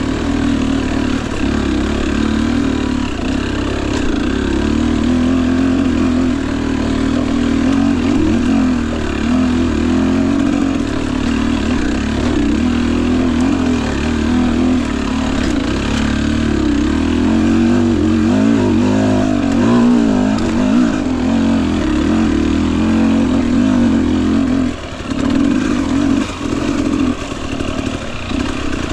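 Single-cylinder two-stroke dirt bike engine (Husqvarna TE250i TPI) running at low to moderate revs, its pitch rising and falling with the throttle on a slow trail ride, easing off briefly near the end.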